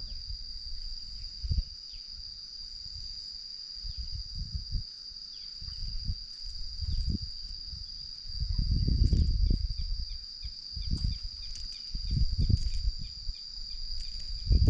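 Insects chirring in one steady, high-pitched drone, with irregular low rumbles coming and going, loudest about nine seconds in.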